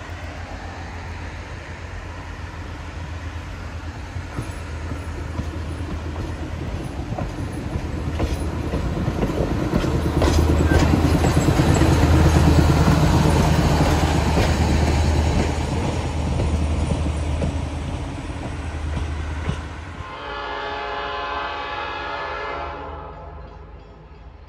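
Diesel locomotive hauling passenger coaches past at close range: a steady low engine rumble, with wheels clicking over rail joints as the cars go by, loudest about midway. About twenty seconds in, a distant train horn sounds a chord and fades near the end.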